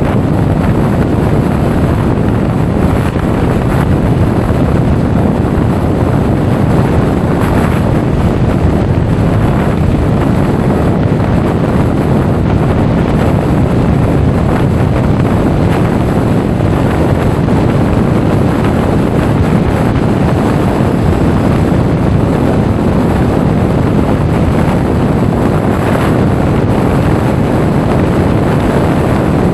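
Steady, loud wind noise rushing over the microphone of a DJI Osmo Action 4 camera on a moving Honda Forza 350 scooter.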